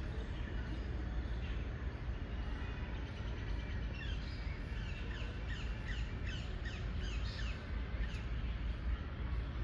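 Birds chirping, with a run of quick, falling chirps starting about four seconds in and lasting several seconds, over a steady low rumble.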